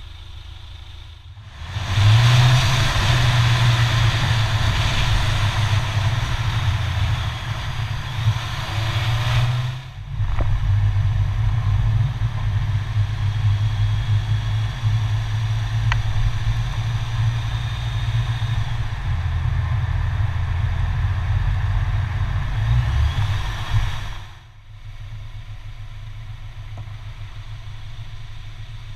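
Car engine, the four-cylinder 2.0 TFSI of an Audi A4 g-tron, running with a steady low hum, heard close up at the front grille. It gets much louder about two seconds in, with a rushing noise over the first stretch, dips briefly near ten seconds, and drops quieter again about twenty-four seconds in.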